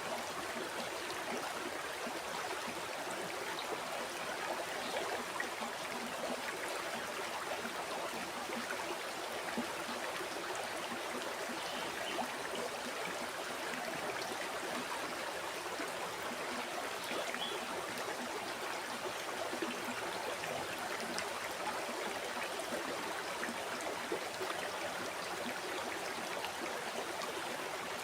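River water flowing steadily over rocks: an even rushing with fine gurgles and trickles throughout.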